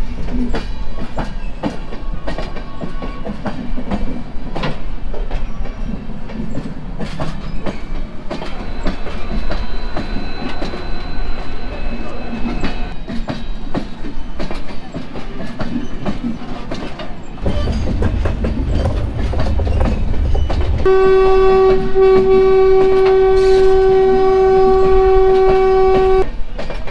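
Train running on the tracks, its wheels clicking over rail joints with a low rumble. Near the end, an electric locomotive's horn sounds one long, steady blast of about five seconds.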